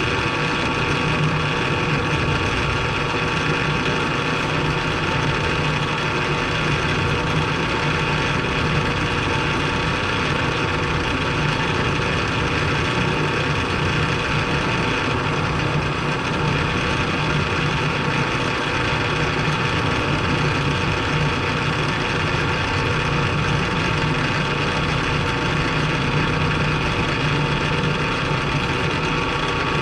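Milling machine running steadily through a cut: a constant machine hum with a steady whine on top that does not change.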